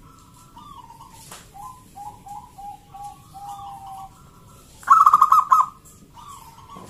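Zebra dove (perkutut) cooing: a run of soft notes that step down in pitch, then a loud, rapid run of notes about five seconds in.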